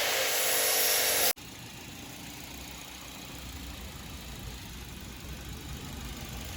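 A loud, even hiss cuts off abruptly about a second in. After it, the Toyota Corolla GLI's engine idles with a steady low rumble that slowly grows louder.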